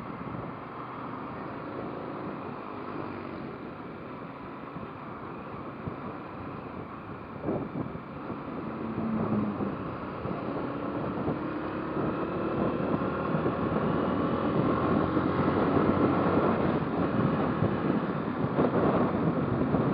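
Motorcycle engine running while riding, with wind on the microphone. From about halfway the engine note rises and grows louder as the bike accelerates.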